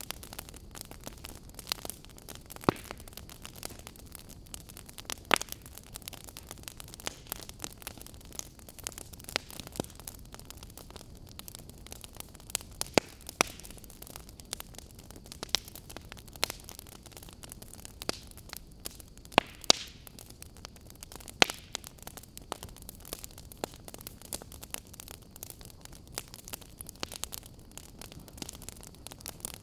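Wood fire burning, with a steady hiss and irregular sharp crackles and pops from the burning firewood, a few of them much louder than the rest.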